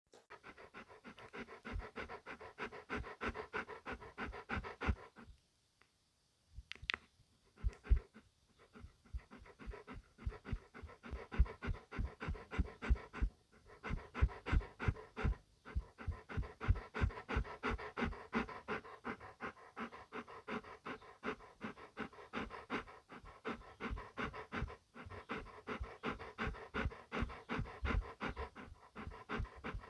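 Beauceron panting close up, in rapid, even breaths. The panting breaks off for about a second a little past five seconds in, then picks up again.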